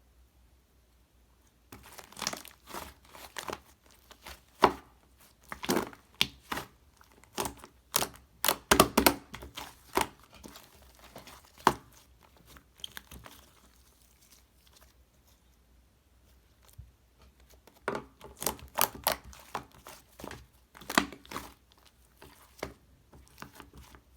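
Slime squished and pulled by hand, giving clusters of sharp pops and crackles, with a quiet stretch of several seconds midway.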